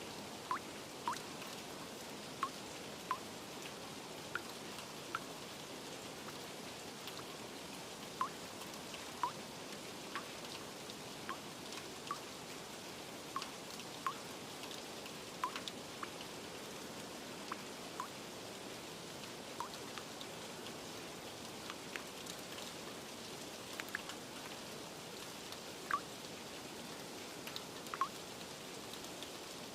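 Steady rain hiss with individual drops plinking irregularly, about one a second.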